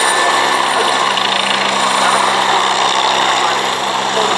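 Aircraft engine running steadily, a constant engine tone under a broad wash of noise.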